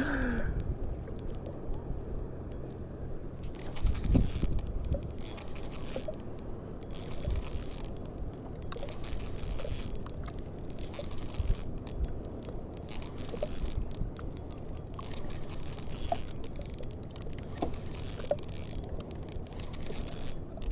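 Water lapping against a kayak hull, with scattered small clicks and knocks from the rod, reel and boat being handled during a fight with a fish. A stronger knock comes about four seconds in.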